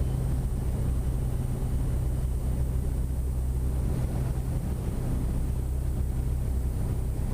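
Steady drone of the Cessna Grand Caravan EX's Pratt & Whitney PT6A turboprop engine heard in the cockpit as takeoff power is set at the start of the takeoff roll, a deep hum with a faint high whine.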